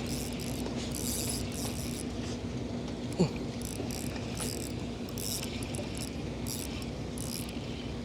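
Fishing reel being cranked to bring in a hooked fish, with the reel's gears whirring and clicking in repeated spurts over a steady low hum.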